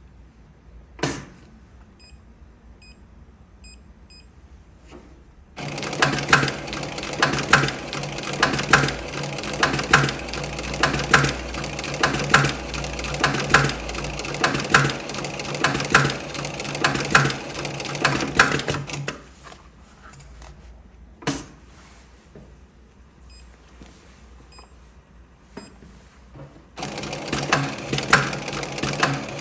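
Electronic pattern post-bed sewing machine stitching a programmed single-needle pattern in a rhythmic run of about 13 seconds. It stops, with a sharp click and faint electronic beeps in the pause, then starts sewing again near the end.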